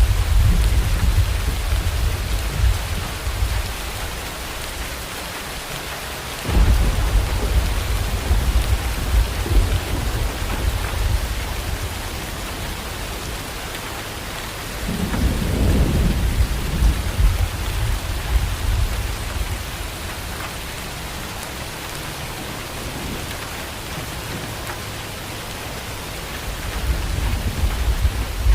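Steady heavy rain with thunder rolling over it. A low rumble fades over the first few seconds, a sudden loud crack of thunder comes about six and a half seconds in, another rumble swells around the middle, and a fresh one builds near the end.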